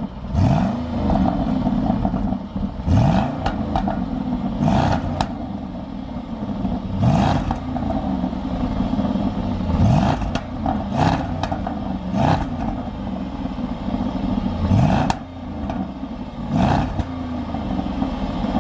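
Stock Jaguar XK 5.0 V8 on its factory exhaust, revving again and again: the engine note climbs in a run of rising pulls, each a second or two long, with a sharp crack here and there.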